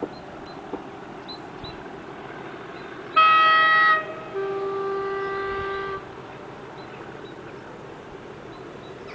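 Two-tone railway horn sounded once: a brief high note, then a longer lower note, over a steady background rumble.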